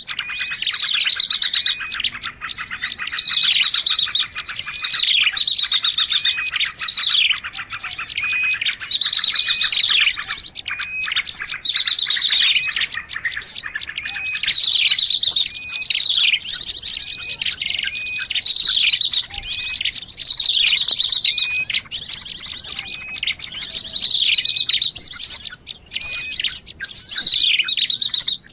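Small songbird calls on a bird-trapping lure recording: high, rapid chirps and buzzy trills repeated over and over without a break.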